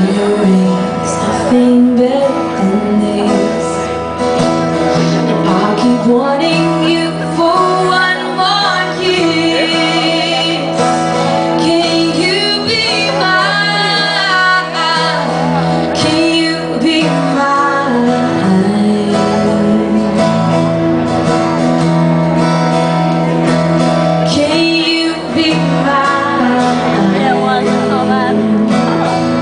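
Live pop music: a woman singing a sliding, wavering melody over a band.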